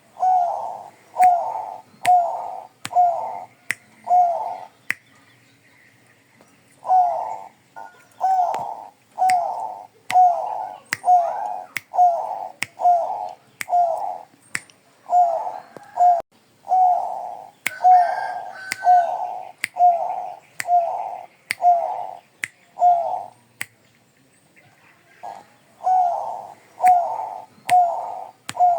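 Perkutut (zebra dove, Bangkok strain) singing: quick runs of short cooing notes, about one and a half a second, in three phrases with brief pauses between. Sharp clicks are scattered through the song.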